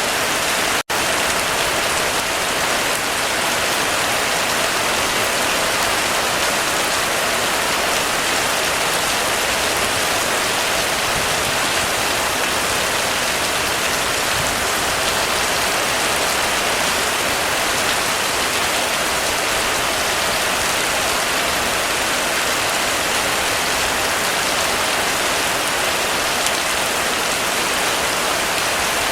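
Heavy rain falling steadily on a roof, a dense even patter, with a momentary dropout in the sound about a second in.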